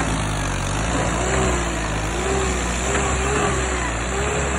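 Tractor engine running steadily, with a thin whine that wavers gently up and down in pitch above the engine's even hum.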